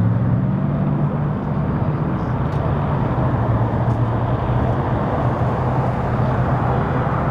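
Steady low hum of an idling vehicle engine, running evenly without change.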